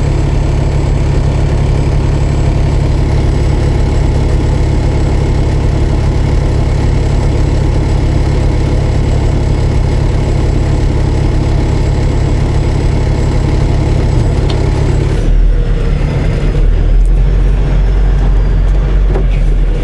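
Semi truck's diesel engine running steadily at idle, heard from inside the cab. About fifteen seconds in the sound changes to a heavier, deeper rumble.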